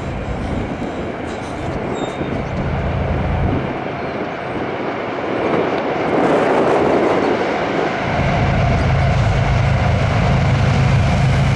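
CSX freight train passing: the low drone of its diesel locomotives over the rumble of wheels on the rails. The engine drone fades for a few seconds and comes back louder about eight seconds in.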